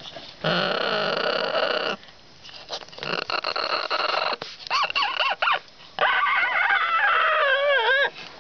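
Yellow-naped Amazon parrot calling: a loud harsh squawk lasting about a second and a half, then softer chatter and warbling calls that bend up and down in pitch, ending in a long loud wavering call.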